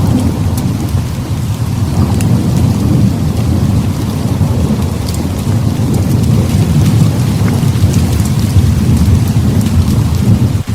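Heavy rain hissing steadily under a long, low rolling thunder rumble that swells through the middle and later part and eases near the end, with scattered sharp little ticks on top.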